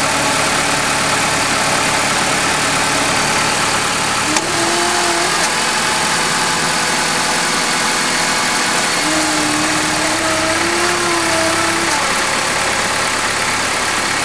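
Honda Stream 2.0 RSZ idling, with a humming whine that comes and goes: briefly about four seconds in, then held for about three seconds from about nine seconds in. This is the abnormal noise the owner links to the CVT at start-up. A single sharp click sounds about four seconds in.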